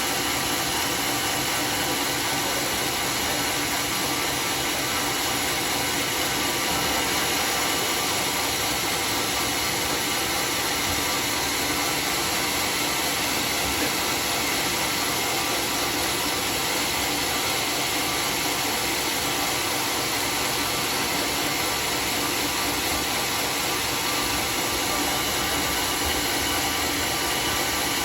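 Homemade circular-saw sawmill running steadily, an even loud noise with several held tones that does not change.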